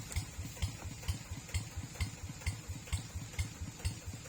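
Tractor engine running slowly at idle, with a regular beat of strong low pulses about twice a second and lighter ones between.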